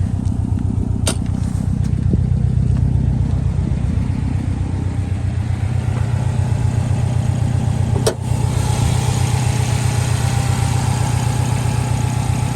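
Subaru WRX STI's turbocharged 2.5-litre flat-four idling steadily through an aftermarket Tomei Expreme exhaust, with two sharp clicks, one about a second in and one about eight seconds in. The sound grows brighter after the second click.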